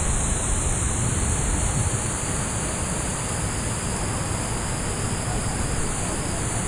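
Steady outdoor noise: a constant low rumble with a continuous high hiss over it, with no distinct events.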